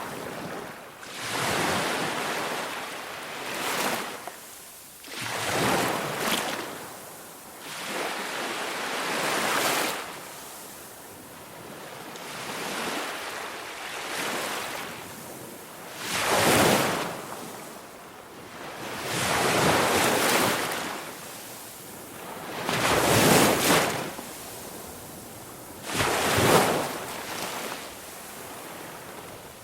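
Ocean waves washing ashore, each swelling up and falling away, about eight in turn every three to four seconds.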